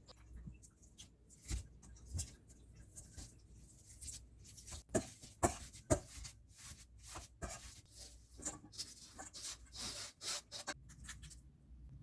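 Food preparation at a kitchen counter: a string of irregular knocks and short scrapes, as of utensils against a cutting board or bowl, with the sharpest knocks about halfway through.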